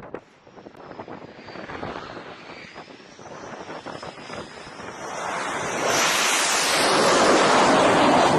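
Jet aircraft engine: a thin high whine wavering in pitch, then a loud rushing roar that builds from about five seconds in and holds.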